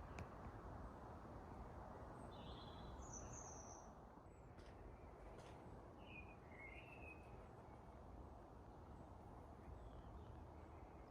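Faint garden ambience: steady low background noise with a few brief bird chirps, a short cluster about two to three seconds in and another about six to seven seconds in. A couple of faint clicks come near the start and around four and a half seconds in.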